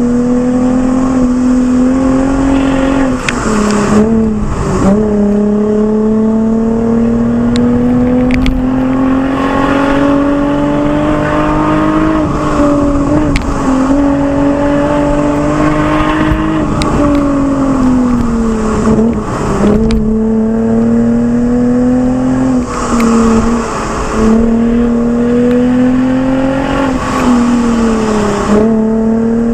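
Lexus IS with an aftermarket Fi exhaust, driven hard: a loud engine and exhaust note that climbs slowly in pitch, then drops sharply, again and again, as the car gears up or lifts off between bends.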